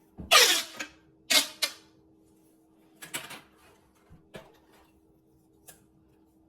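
Corrugated plastic stretch pipes (pop tubes) being stretched and squeezed, crackling and popping in a few short bursts. The loudest bursts come in the first second and a half, followed by smaller crackles and single clicks.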